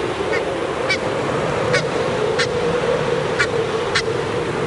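Geese calling: about six short, high-pitched calls at irregular intervals over a steady low hum.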